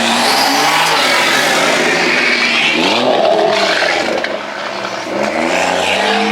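A high-powered car's engine accelerating hard, its pitch climbing, easing off briefly about two-thirds of the way through, then climbing again as it pulls through the gears, over a loud rush of noise.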